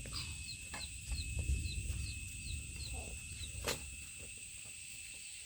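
Chicks peeping in a steady run of short falling chirps, about four a second, over a steady high-pitched hum, with a low rumble in the first three seconds and a single sharp knock near the middle.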